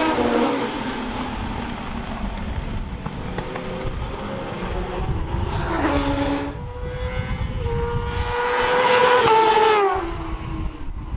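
Racing motorcycles from the Pre-Injection class passing one after another at speed. Each engine note rises as it nears and then drops as it goes by, stepping down in pitch; the loudest passes are at the start and about nine seconds in.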